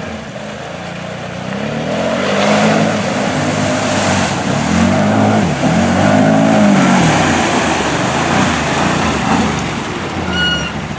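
ATV engine revving up and down again and again as it is driven hard through a water hole, with water splashing. A short high squeak comes near the end.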